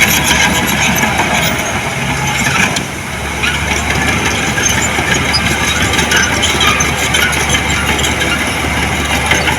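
Diesel engine of heavy earthmoving equipment running steadily, with a brief dip in loudness about three seconds in.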